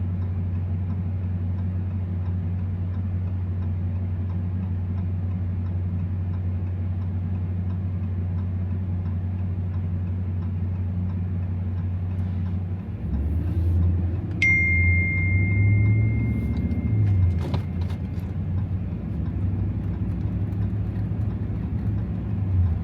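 2024 Ram TRX's supercharged 6.2-litre V8 heard from inside the cab: a steady low drone while cruising, then about 13 seconds in the engine note gets louder and rises and falls as the throttle is worked. A single high tone starts suddenly shortly after and fades away over a few seconds.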